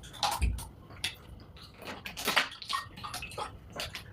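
Close-up wet mouth sounds of eating and drinking: a run of short, irregular smacks and clicks.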